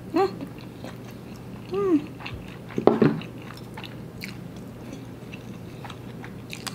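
A person chewing a mouthful of instant black bean noodles, with wet mouth clicks and smacks. Two short hummed "mm"s come in the first two seconds, and a louder burst of chewing follows about three seconds in.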